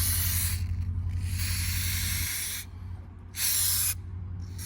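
Aerosol can of dye penetrant spraying onto an engine block in three hissing bursts, the last one short, while the surface is soaked during a dye penetrant crack test. A steady low hum runs underneath and drops away about halfway through.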